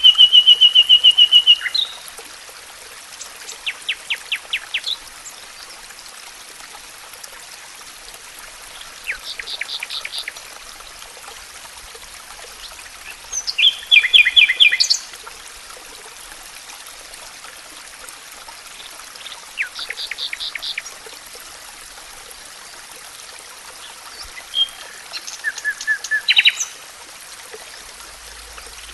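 A songbird singing short phrases about every five seconds, each a quick run of rapid notes, one of them a fast even trill at the start, over a steady faint hiss.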